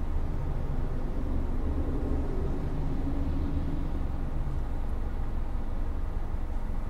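Cabin noise of a Hyundai Avante (Elantra) cruising on a highway: a steady low road-and-tyre rumble mixed with air-conditioning fan noise. A faint hum swells from about half a second in and fades by about four and a half seconds.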